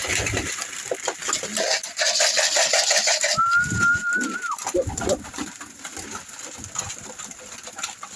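Domestic pigeons cooing in a loft, with a rustling hiss in the first three seconds and one high, steady whistle-like note lasting about a second near the middle.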